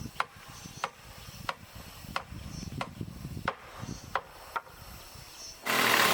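Wood being struck in light, even knocks, about one every two-thirds of a second. Near the end a chainsaw starts up loudly and keeps running.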